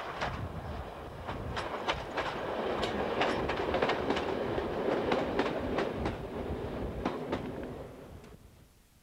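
Diesel multiple unit railcar passing close by, with a rushing running noise and wheels clicking irregularly over rail joints. It is loudest mid-way and fades out near the end.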